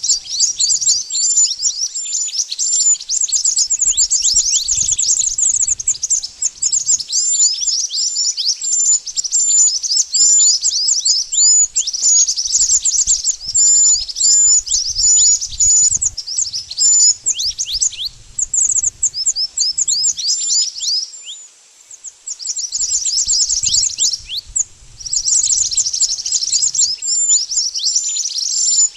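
Mantenan birds chirping and twittering in a dense run of rapid, high, downward-sliding notes, with a brief pause a little after the middle. It is a lure call used for trapping birds.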